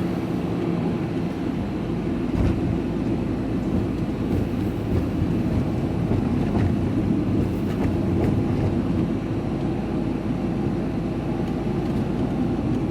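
Steady engine and road noise inside the cab of a moving vehicle, with a few faint rattles.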